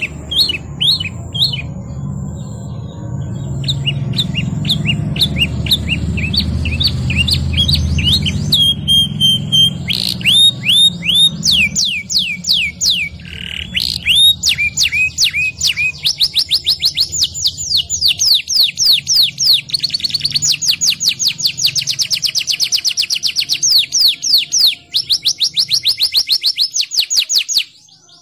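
Domestic canary singing a long song of rapid repeated trills and rolling runs, with one brief held whistle partway through. A low background hum sits under the first half.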